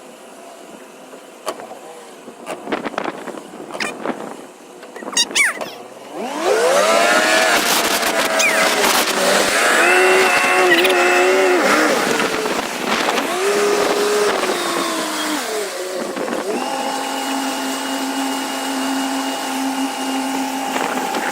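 Tow boat's engine revving up about six seconds in, its pitch rising and wavering under load, then holding a steady pitch through the last few seconds.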